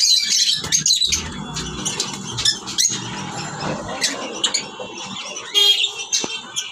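Small pet parrots (love birds) chattering with shrill chirps and squawks, several calling over one another. There is a louder burst of squawks near the end.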